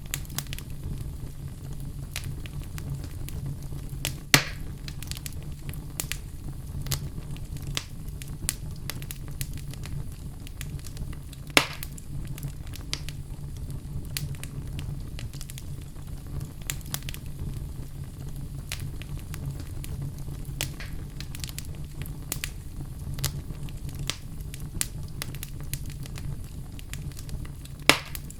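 Wood fire crackling steadily: burning logs give off a constant low rumble under many small irregular crackles, with three louder pops, about four seconds in, about twelve seconds in and just before the end.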